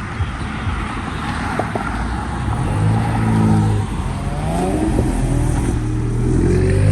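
Car engine accelerating hard as it pulls away, revs climbing, dropping briefly about four seconds in like a gear change, then climbing again and getting louder toward the end.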